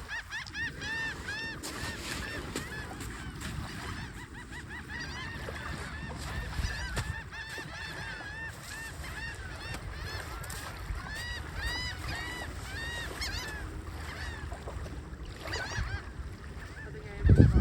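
A flock of geese honking continuously, many overlapping calls over a steady low rumble, with a loud low thump near the end.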